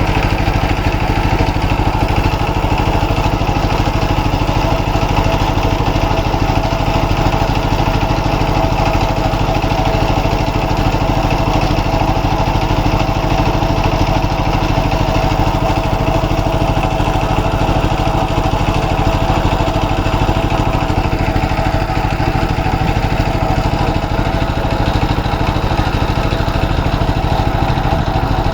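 A boat's engine running steadily at an even speed, with no change in pitch.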